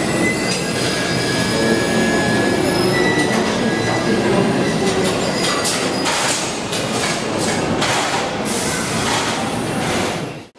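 A train running past, with a thin high squeal of wheels on rail, then a run of rail clacks in the second half. The sound cuts off abruptly at the end.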